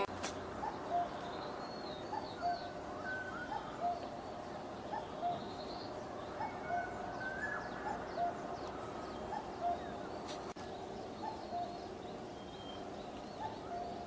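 Birds calling: a short, low note repeats about every second and a half, with scattered higher chirps and twitters over it and a steady background hiss.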